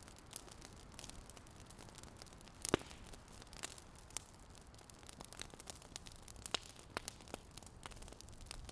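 Fire crackling: irregular snaps and pops over a low steady hiss, with one louder pop a little under three seconds in.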